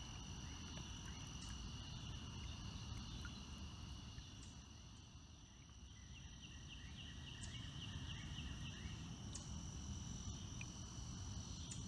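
Evening chorus of crickets and other insects: a steady high trilling, with a run of quick chirps about halfway through, over a low rumble.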